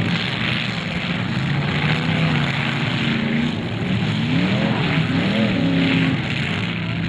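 Several demolition derby cars' engines running and revving together, their pitch rising and falling again and again, most clearly in the middle of the stretch.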